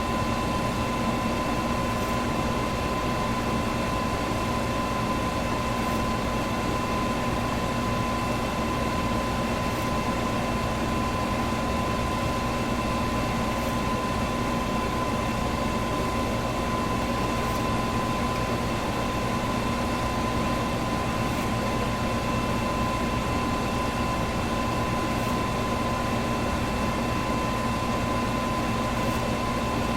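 Electric fan running steadily: a constant rush of air over a steady motor hum, with a faint click about every four seconds.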